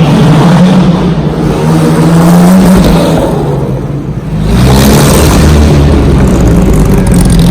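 Car engine running hard at high revs, easing off for about a second midway, then picking up again.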